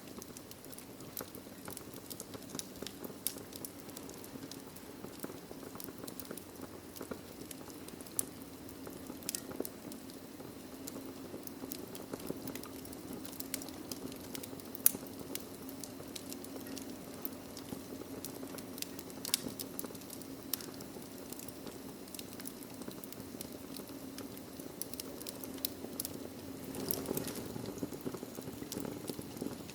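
Wood fire burning in a fireplace, crackling with irregular small pops over a low steady rush of flame; one sharper, louder pop about halfway through.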